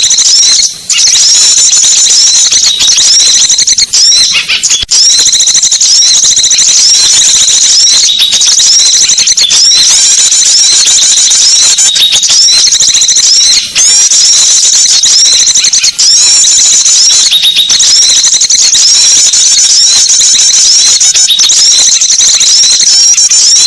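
Small-bird lure call: a dense, continuous chorus of high-pitched chirps and twitters, loud and repetitive, broken by a few brief gaps.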